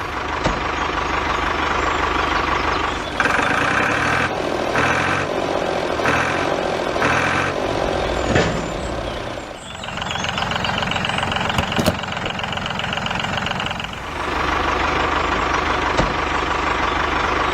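Truck engine running steadily, with a pulsing stretch of about five evenly spaced beats a few seconds in. The tone changes abruptly twice later on.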